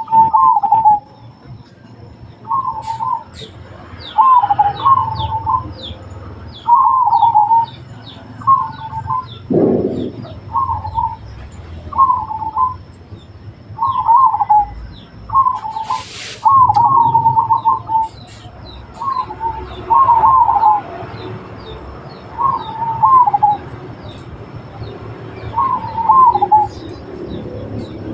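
Zebra doves (perkutut) cooing: short rolling coo phrases repeated every second or two, with many thin, high chirps behind them.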